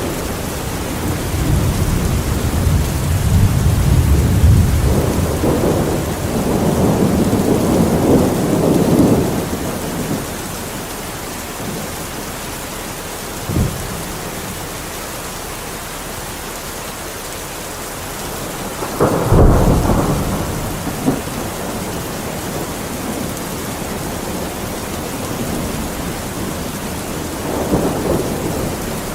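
Steady rain with thunder: long low rolling rumbles through the first third, a short sharp crack near the middle, a louder clap about two-thirds of the way through that rumbles away, and a fainter rumble near the end.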